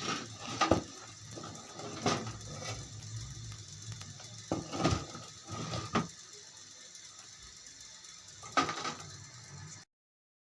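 Scattered knocks and clatters, about seven in all with a cluster in the middle, over a faint steady hum; the sound cuts off abruptly near the end.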